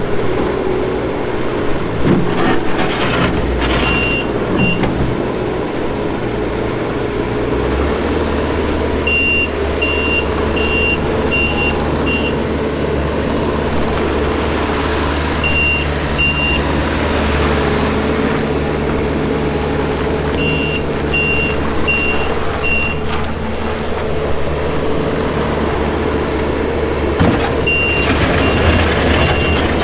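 2016 Bobcat T630 compact track loader's diesel engine running steadily, its engine note changing about eight seconds in. Its backup alarm beeps in several short runs while it reverses.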